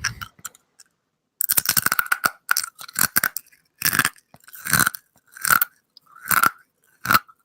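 A person chewing a scorpion claw, its hard exoskeleton crunching between the teeth. After a short pause, a steady run of crunches starts about a second and a half in, coming a little more than once a second.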